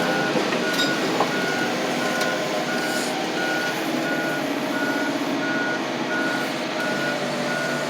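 Heavy machine's reversing alarm beeping steadily, about three beeps every two seconds, over its engine running, with a few faint knocks.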